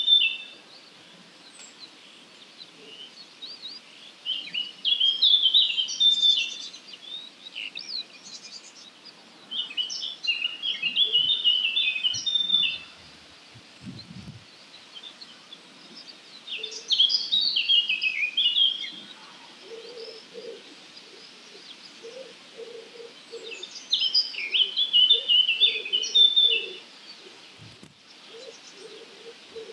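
A songbird singing short, rich warbling phrases, about one every six seconds with pauses between them. From about two-thirds of the way in, a faint low bird calls with repeated notes in the background.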